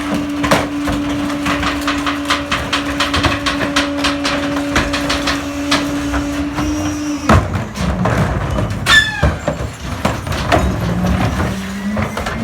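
Crane Carrier garbage truck's engine held at raised revs while its Pak-Mor rear-loader packer cycles, with repeated knocks and clanks of heavy trash being crushed. About seven seconds in the engine speed drops abruptly, then slowly rises again, with a brief falling squeal from the packing mechanism shortly after the drop.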